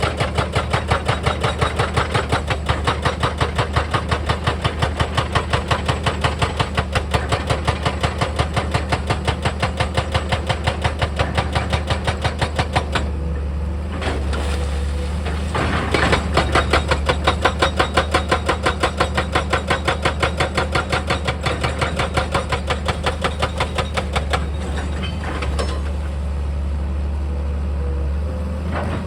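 Heavy diesel machinery running, with a rapid, even pounding of about four strokes a second that stops about halfway through, returns briefly, then gives way to smoother running.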